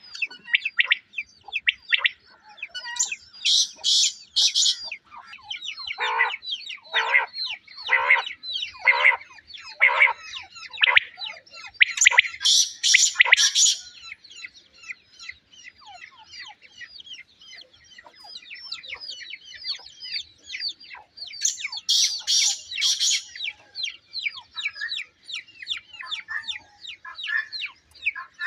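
Quail calling: loud three-note phrases repeated about every nine seconds, over a busy chorus of small birds chirping. Between about 6 and 11 seconds in there is a run of about six louder falling calls, roughly one a second.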